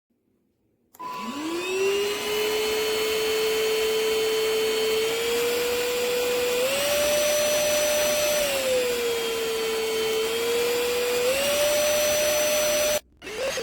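Trucozie cordless stick vacuum cleaner switched on about a second in, its motor spinning up with a rising whine and then running steadily. The motor pitch steps up, drops back and steps up again. It cuts off suddenly near the end and briefly starts again.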